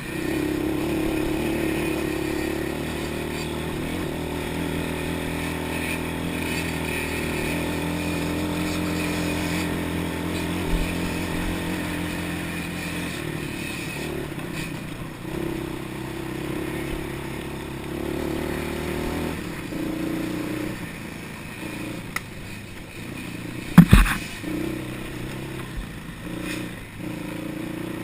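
Off-road motorbike engine running as it is ridden, its pitch rising and falling with the throttle and easing off about twenty seconds in. A single loud, sharp knock comes near the end.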